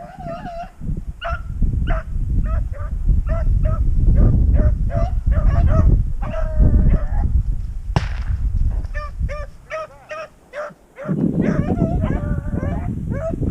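Rabbit-hunting dogs baying and yelping over and over, short pitched calls one after another as they run a cottontail's trail. A single sharp crack about eight seconds in.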